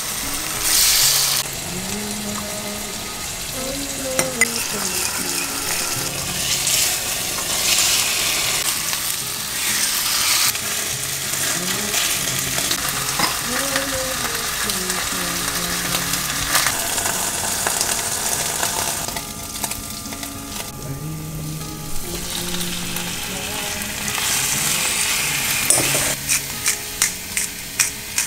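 Food frying in oil in pans: a pork chop sizzling, then garlic, chilli and Shanghai greens being stir-fried, with a wooden spatula scraping and tapping the pan. Steady sizzle throughout, with a quick run of taps near the end.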